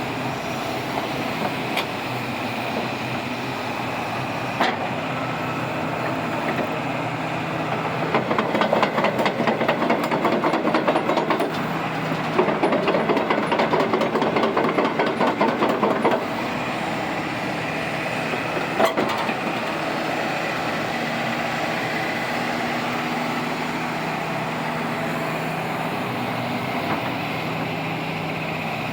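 Hitachi ZX250LC-6 crawler excavator's diesel engine running steadily. From about eight to sixteen seconds in comes a fast rhythmic clatter of the steel tracks as the machine travels. There are two single knocks, one at about five seconds and one at about nineteen.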